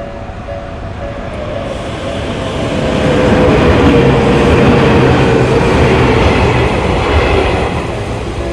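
Tokyu Ikegami Line electric train passing a level crossing close by. The rumble and wheel noise build over the first couple of seconds, are loudest in the middle, then ease off near the end.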